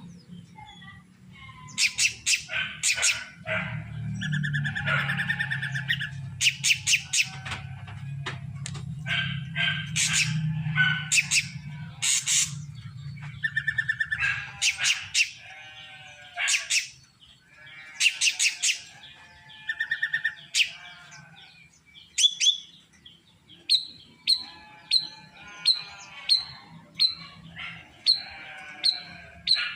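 Drongo (srigunting krantil) singing a loud, varied song of whistled and harsh notes, ending with a run of short repeated notes about two a second. A low hum sits under the first half.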